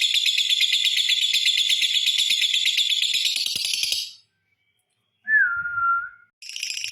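Lovebird's long, very rapid, high-pitched chattering song (the 'ngekek panjang'), which cuts off about four seconds in. After a second of silence comes one clear whistled note lasting about a second and sliding slightly down, and the lovebird's chatter starts again just before the end.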